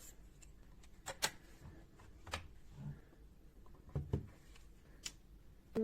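Faint sharp clicks and light knocks, about six scattered irregularly, some paired closely, over quiet room tone.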